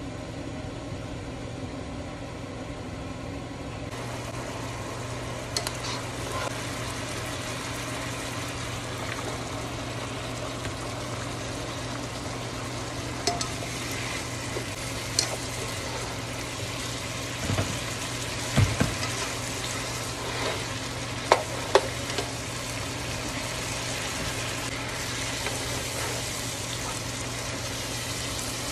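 Shredded cabbage and beef sizzling in a nonstick pot, the sizzle growing louder about four seconds in, while a plastic slotted spoon stirs and now and then knocks against the pot.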